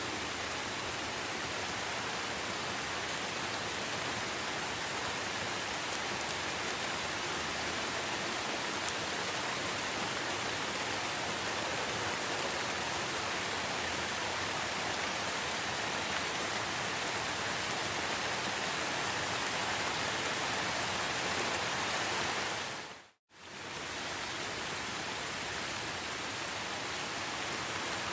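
Steady, dense rainfall: an even hiss of drops with no separate events. About 23 seconds in it fades out to silence for a moment and straight back in, like a loop point in the recording.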